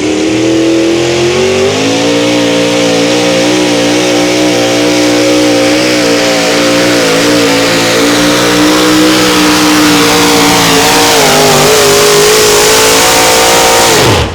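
A pulling vehicle's engine at full throttle down the track. It climbs in pitch over the first second or so, holds high and steady with small wavers and a slight sag about eleven seconds in, then cuts off suddenly at the end.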